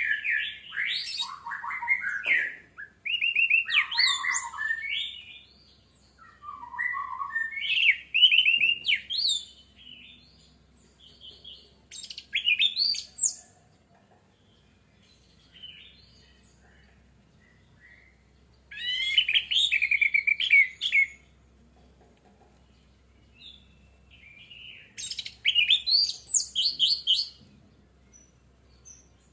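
Orange-headed thrush singing: fast, varied whistled phrases in bursts of one to five seconds, broken by pauses of several seconds.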